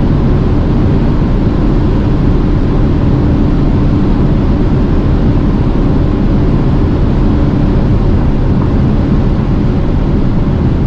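Car running at high speed under hard acceleration: a steady, loud mix of engine, tyre and wind noise, with a held engine tone that drops away about eight seconds in.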